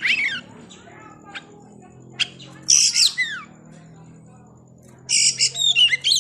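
Oriental magpie-robin (kacer) singing: loud bursts of rapid, varied whistled phrases with falling slurs, three times, over a faint steady background.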